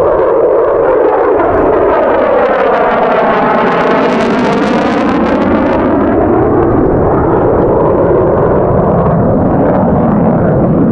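Jet engine noise of an F-22 Raptor, with two Pratt & Whitney F119 afterburning turbofans, as it makes a low pass. The sound is loud throughout and sweeps in pitch as the jet passes overhead about four to five seconds in.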